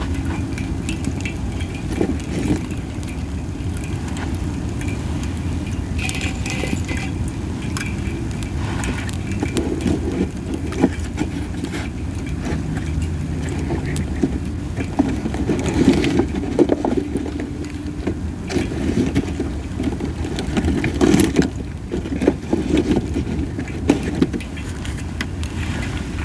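Masaki (Japanese spindle) wood burning in a campfire, with scattered crackles and pops and a hissing sound. Wind rumbles steadily on the microphone.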